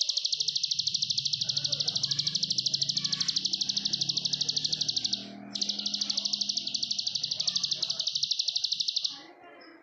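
Plain prinia singing its long, rapid, even trill of high notes in two runs: the first breaks off about five seconds in, the second starts a moment later and stops near the end.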